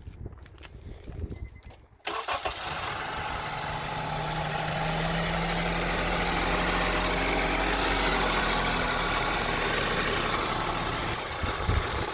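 2002 Honda CR-V 2.4-litre four-cylinder engine starting about two seconds in and then running at idle, its speed slowly rising and falling. The owner says it idles very roughly, the RPM going up and down.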